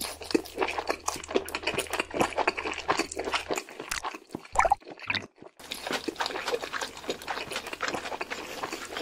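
Foley of hands handling and pressing a raw fish fillet made of Lego bricks: a dense, irregular run of small clicks and squishes, broken briefly about three and a half and five and a half seconds in.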